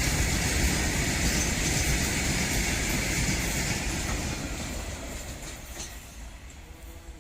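Express passenger train running past at speed on the track, its wheel and rail noise loud at first and then fading away from about four seconds in as it moves off.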